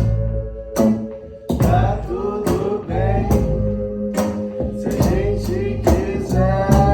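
Live band music: a voice singing over guitar and percussion keeping a steady beat, the singing coming in about a second and a half in.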